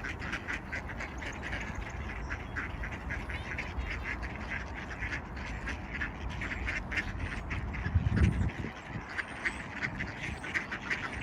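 A flock of mallard ducks quacking, many short calls overlapping in quick succession, over a low rumble, with a brief louder low thump about 8 seconds in.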